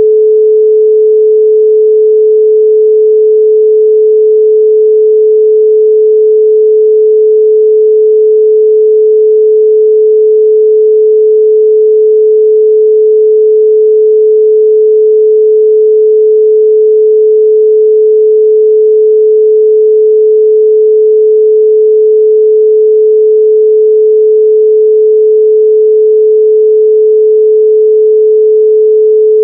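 Continuous 432 Hz pure sine tone, one steady pitch with no overtones, held at a constant high level.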